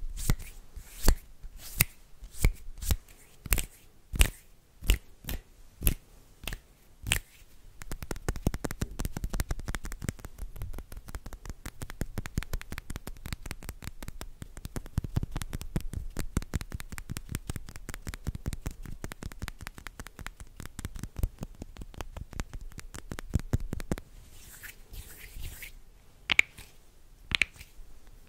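Hand sounds close to the microphone: separate sharp clicks about twice a second, then a long stretch of fast, dense clicking and rubbing, then softer swishes with a few sharp clicks near the end.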